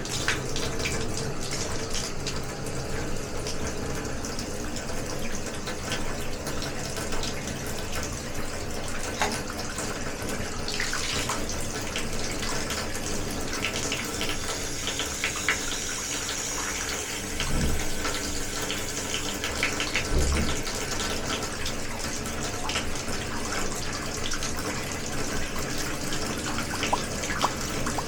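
Water running steadily from a tap, with scattered light clicks and two short low thuds about two-thirds of the way through.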